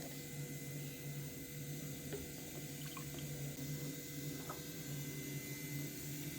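Steady running water, with a few faint drips or ticks.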